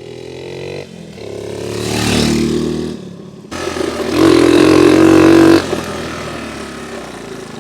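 Honda CT70 minibike's small single-cylinder four-stroke engine being revved hard as it is ridden. The pitch climbs and falls, breaks off suddenly about halfway through, then comes back at its loudest for a couple of seconds before easing off.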